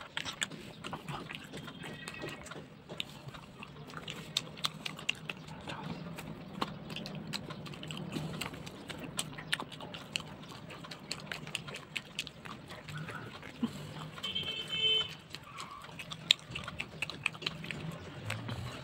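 Close-up eating sounds: wet chewing and lip smacking with many sharp mouth clicks as blended fava bean puree (ful) is eaten with flatbread. A low steady hum runs underneath, and a brief high tone sounds twice, near the start and about three-quarters through.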